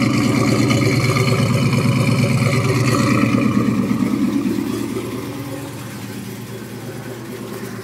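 1966 Chevelle's small-block 350 V8 idling through Patriot mid-length headers and a Bassani X-pipe exhaust, a steady pulsing exhaust note. It grows quieter a little past halfway through.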